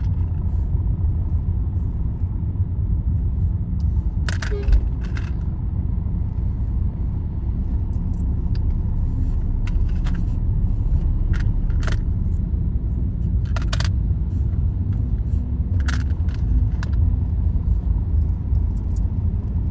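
Steady low road and engine rumble from inside a vehicle travelling along a highway, with scattered short clinks and rattles from loose fittings.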